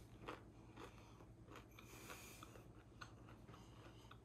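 Faint chewing: a mouthful of battered fried walleye being chewed, with soft, irregular mouth sounds over a low steady hum.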